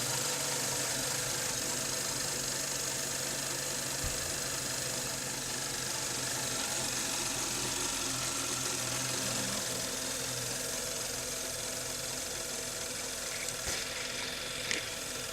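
BMW N55 turbocharged inline-six in a 2014 535i, idling steadily with an odd noise after a valve cover gasket job. The owner reports that the revs sag and the engine then stalls, with a fault in timing or fuel suspected.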